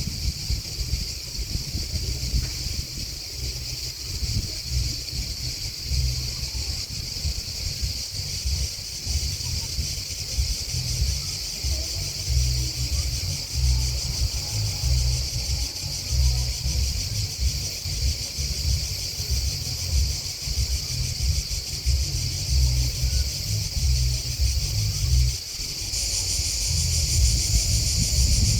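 Grasshoppers and crickets singing in a steady, high-pitched chorus, which grows louder near the end, over a low, uneven rumble.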